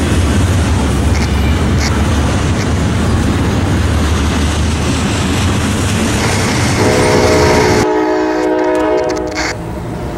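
Double-stack intermodal freight train rolling past a grade crossing, with a steady heavy rumble and clatter of wheels on the rails. About seven seconds in a diesel locomotive horn starts sounding a steady chord, and the train rumble drops away about a second later. The horn is from the approaching CSX train led by AC6000CW 604.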